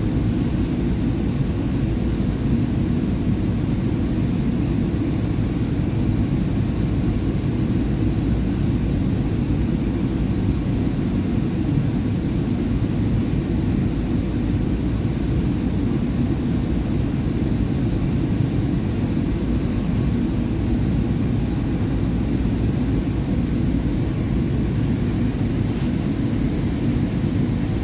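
SEPTA Market-Frankford Line train (M-4 subway cars) running at a steady speed: a constant low rumble of wheels on rail and running gear that holds an even level throughout.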